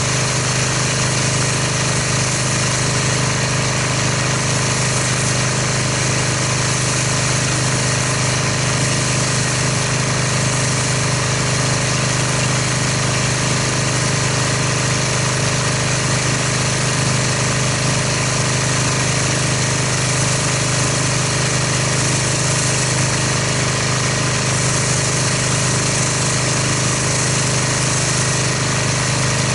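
Pressure washer running steadily, its motor and pump humming under the hiss of the water spray as the car is rinsed.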